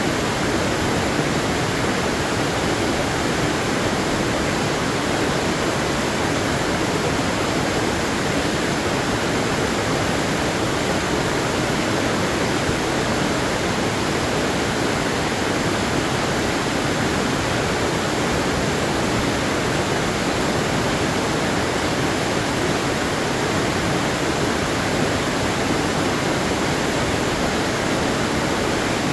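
Waterfall rushing, a steady even noise with no breaks or changes.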